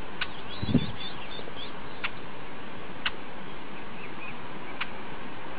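Small birds chirping faintly over a steady outdoor hiss, with a few sharp clicks a second or two apart and a dull thump about three-quarters of a second in.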